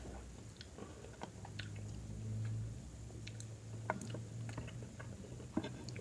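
Close-miked chewing of a mouthful of food, with scattered small wet mouth clicks, over a low steady hum.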